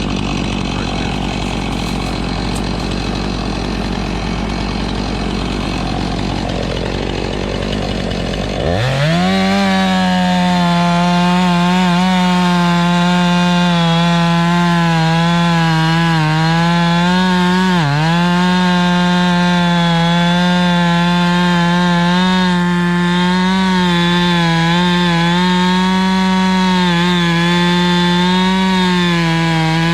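Two-stroke chainsaw, likely a Husqvarna, revving up sharply about nine seconds in and running at steady full throttle through a log, its pitch sagging briefly once midway. Before that, a rougher engine runs at a low, uneven speed.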